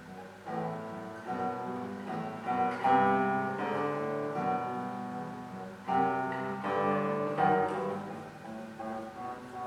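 Classical guitar played solo: plucked notes and chords that ring and fade, with a few louder chords struck about three, six and seven and a half seconds in.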